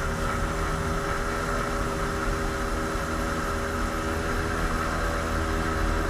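1986 Kawasaki JS300 stand-up jet ski's single-cylinder two-stroke engine running at steady speed under way, with a rush of water and wind underneath.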